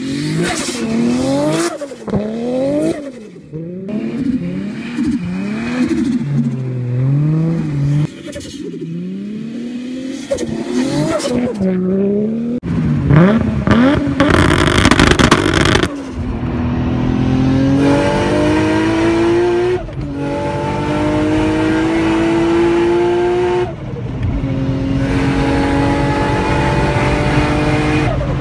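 Nissan Skyline R34 engine, first revved up and down again and again in quick blips while the car drifts on snow. About halfway through comes the loudest part, a burst at full throttle. Then, heard from inside the car, the engine pulls hard with a steadily rising note and shifts up twice.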